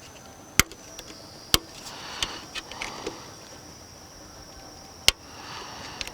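Sharp clicks and taps of hand tools and plastic trim parts being worked on a car interior: three loud single clicks, about half a second, a second and a half and five seconds in, with softer ticks and rattling between.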